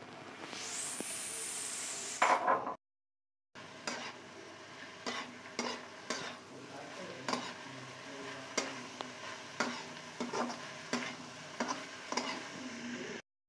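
Minced chicken frying in hot oil with chopped vegetables in a wok, sizzling loudly for the first two seconds. A steel spatula then stirs it, scraping and clicking against the wok about once or twice a second over a fainter sizzle.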